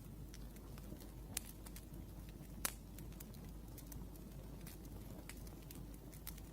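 Wood fire crackling, with irregular small snaps and a couple of louder pops, about a second and a half in and near the middle, over a low steady rumble.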